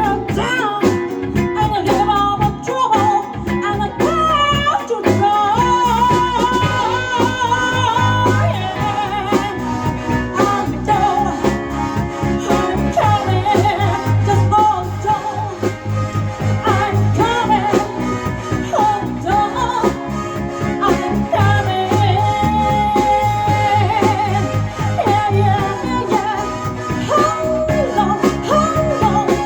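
Live band playing a song: drums, a steady bass line and a gliding melodic lead over them.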